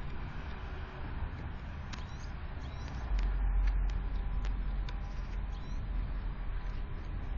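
Small birds at a window feeder: a scattering of light, sharp ticks and scrabbling, over a low steady rumble that grows louder about three seconds in.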